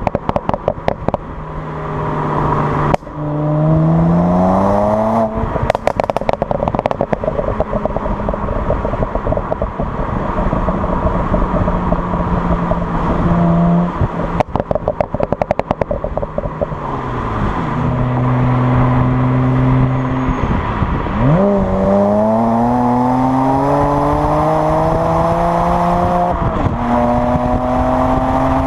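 BMW 335i's twin-turbo straight-six, tuned to MHD Stage 1 with a burble map, pulling through the gears: its pitch climbs under throttle and drops at each gear change, with steady cruising stretches between. When the throttle is lifted, several bursts of rapid crackling and popping come from the exhaust.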